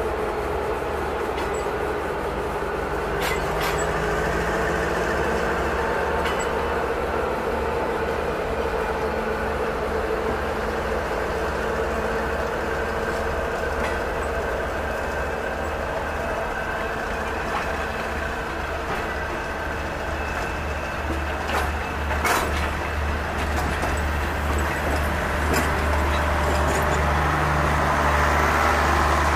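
Alsthom diesel-electric locomotive running under load as it pulls a passenger train slowly out of the station. The coaches roll past close by, with occasional sharp clicks and clanks from wheels and couplings.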